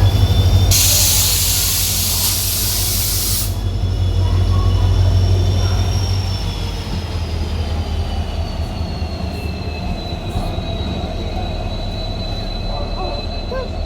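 Indian Railways train running on the rails with a low rumble and a high wheel squeal that drifts slowly in pitch. A loud hiss starts about a second in and cuts off suddenly about three seconds later.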